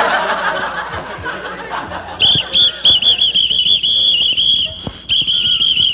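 A whistle blown in a rapid string of short, shrill toots on one pitch, starting about two seconds in, with a brief pause near the end.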